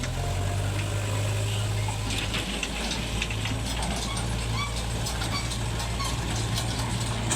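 Heavy diesel machinery running steadily with a low hum, with scattered clicks and rattles through the middle of the stretch.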